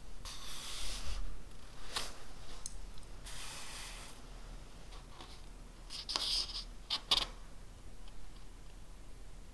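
Writing on paper: a few short bursts of scratchy strokes with pauses between them, and a couple of light taps.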